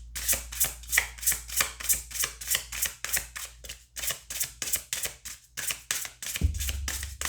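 Tarot deck being shuffled by hand: a run of quick, even card slaps, about three or four a second, stopping near the end as a low rumble of handling noise starts.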